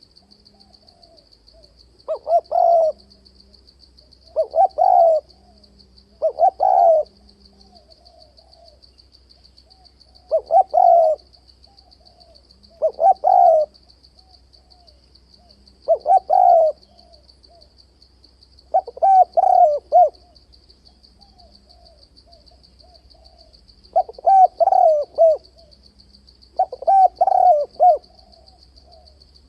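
Spotted dove cooing: about nine short phrases of several rolling notes, one every two to three seconds, over a faint steady high-pitched trill.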